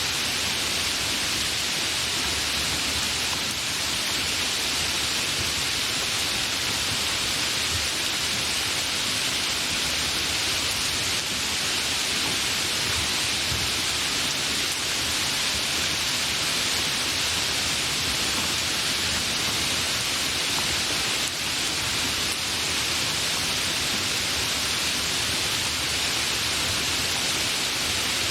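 Steady, fairly heavy rain falling without thunder: an even hiss, brightest in the higher range, that holds at one level throughout.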